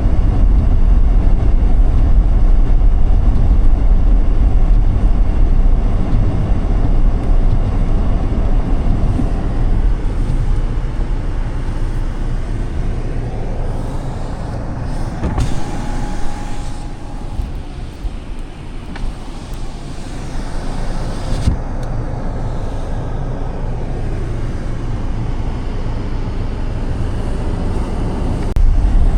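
Car driving on a snowy road: a steady low rumble of tyres and engine. It eases off about halfway through, while a higher hiss comes in for about six seconds.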